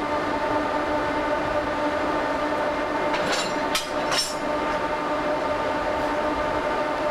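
Freight train locomotive running steadily during shunting, a constant hum of several steady tones, with three short hissing bursts a little after halfway.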